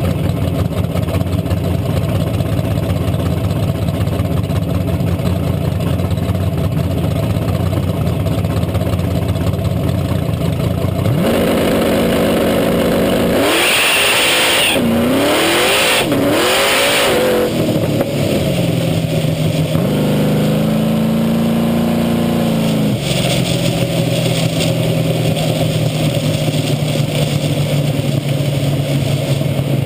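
Drag car's engine, heard from beneath the car, running steadily, then revved in three quick rise-and-fall blips near the middle before settling back to a steady run.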